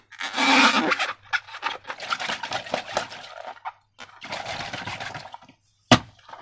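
Wet, sticky squishing and crackling of slime being worked, in irregular bursts, with a sharp click about six seconds in.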